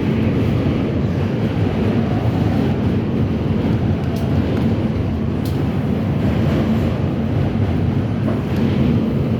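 R68 subway train running along the track: a steady, loud low rumble with a few faint clicks.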